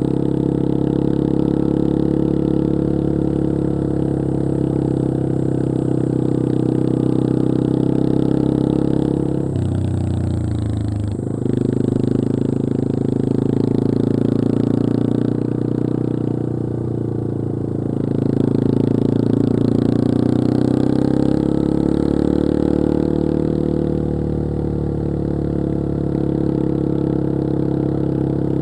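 Yamaha XT225 Serow's single-cylinder four-stroke engine running under way. About ten seconds in, the engine note breaks and drops briefly, then picks up again.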